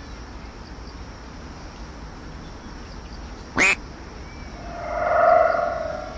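Comedy sound effects added in the edit: a quick swish, then about a second later a drawn-out, nasal duck-like quack that swells and fades.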